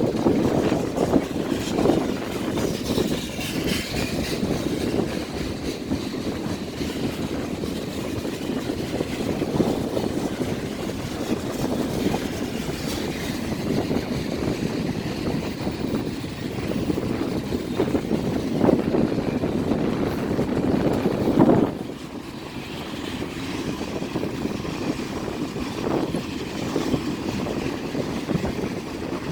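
A long train's cars rolling across a railway bridge: a steady rumble and clatter, with a few louder bangs, the loudest about 21 seconds in, after which it eases slightly.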